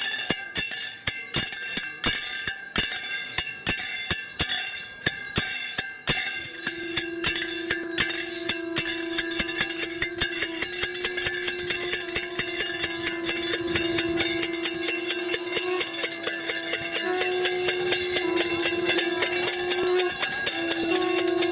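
Brass temple bells ringing rapidly and without pause, as at the arati. The strikes are densest for the first six seconds. From about six seconds in, a loud, steady, horn-like tone joins and holds, stepping slightly in pitch near the end.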